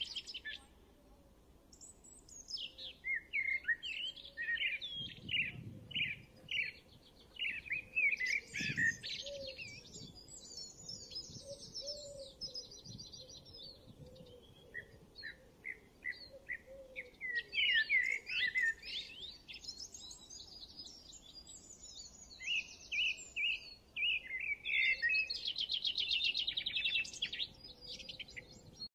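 Birds chirping and twittering in bursts of quick, repeated notes, with rapid high trills now and then and short pauses between phrases.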